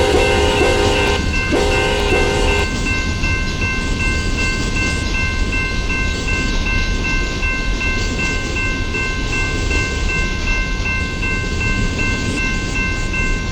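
CN diesel freight train passing close by, its locomotive horn sounding twice in the first couple of seconds and then stopping, as the cars rumble by. A steady high ringing tone carries on over the low rumble of the rolling train.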